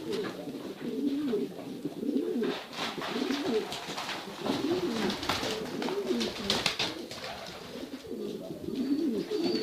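Domestic pigeons cooing repeatedly, low warbling coos following one another, with a few faint clicks.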